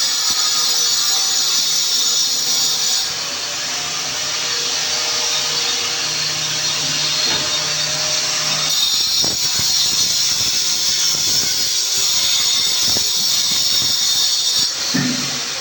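Electric power tool running steadily, working harder with a harsher, brighter sound for the first three seconds and again from about nine seconds in until near the end.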